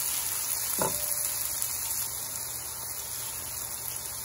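Chopped tomatoes and onions sizzling in hot oil as a spatula stirs them in the pan, with one brief knock about a second in.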